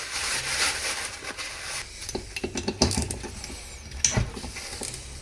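Metal transmission parts and tools being handled: a scraping, rubbing sound for about two seconds, then a run of clinks and knocks of metal pieces against each other and the bench.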